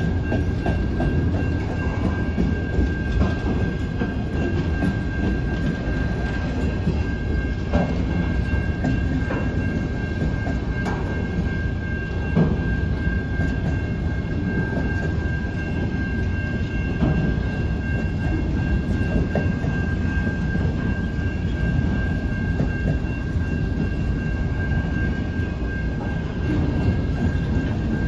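Freight train of autorack cars rolling slowly past: a steady low rumble of wheels on rail with scattered knocks. A thin, steady high-pitched tone runs through it.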